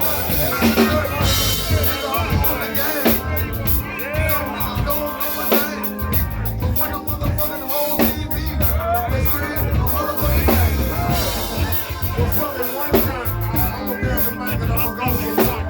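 Live band music: a drum kit and heavy bass playing a steady groove, with pitched voices or instruments wavering over it.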